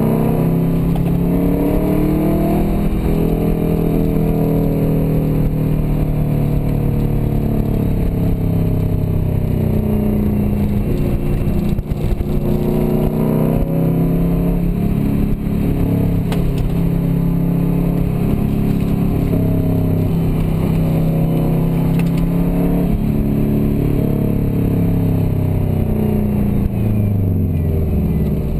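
Turbocharged Subaru Forester XT flat-four engine, heard from inside the cabin, revving up and dropping back again and again as the car is driven through corners and gears. Near the end the engine note falls steadily as the car slows.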